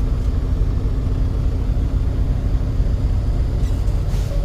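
Low, steady rumble of a road vehicle's engine and tyres while driving, with a brief hiss near the end.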